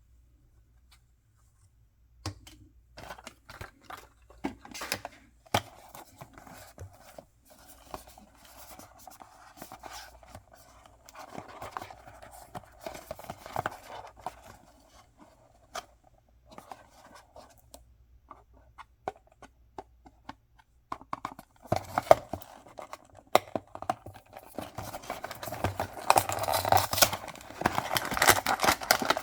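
Toy packaging being opened and handled: scattered clicks and scratching start after a quiet couple of seconds, then build into dense crinkling and tearing of wrapping over the last several seconds.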